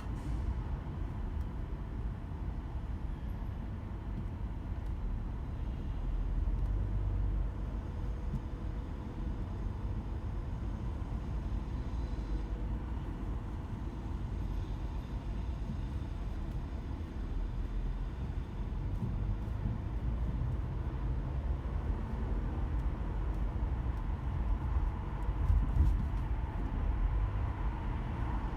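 Car driving in slow, congested city traffic: a steady low rumble of engine and road noise that swells a little at times.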